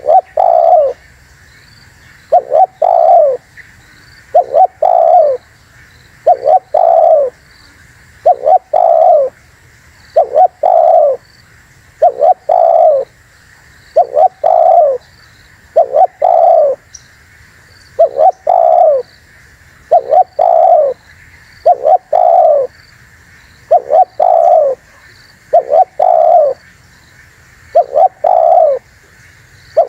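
Spotted dove (tekukur) cooing. The song repeats a short two-note coo phrase about every two seconds.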